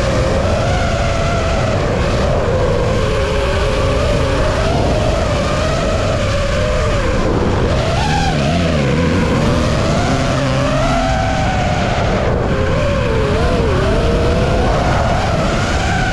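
DJI FPV drone's motors and propellers whining steadily, the pitch wavering up and down with the throttle.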